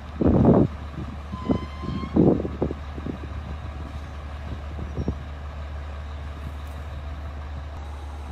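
Heavy truck engine running with a steady low drone. Two loud heavy bangs sound, one about half a second in and another about two seconds in, with a few lighter knocks between and after.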